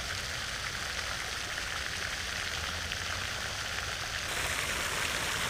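Pond fountain splashing, a steady water noise like falling rain, a little brighter about four seconds in.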